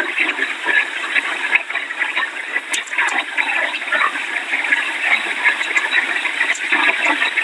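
Loud, steady rushing noise of hurricane wind and rain.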